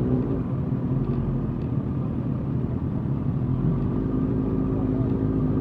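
Motorcycle engines running at low, steady revs.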